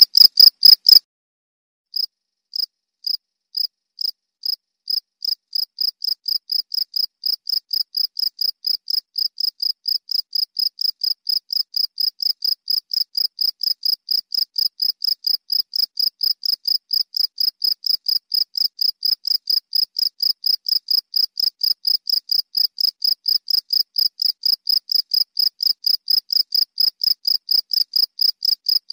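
Cricket chirping, a regular train of short high-pitched chirps. One recording stops about a second in. After a brief silence another begins, its chirps slow at first, then quickening to about three or four a second and growing gradually louder.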